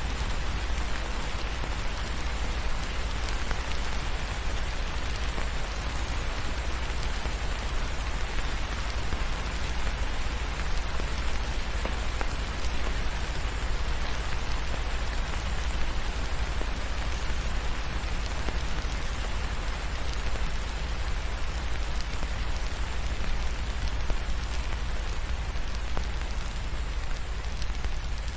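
Steady rain falling, a dense even patter of drops with a constant deep rumble underneath.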